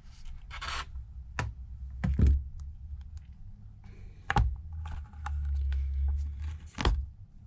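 Hand work on an opened iPad on a repair bench: a few sharp clicks and taps and some light scraping. A low handling rumble runs through the middle.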